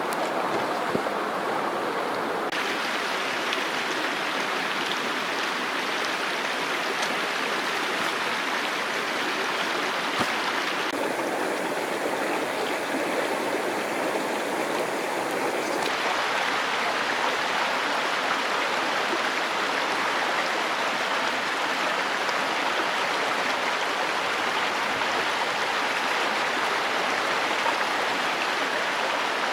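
Mountain stream rushing, a loud, steady hiss of running water whose tone shifts abruptly a few times.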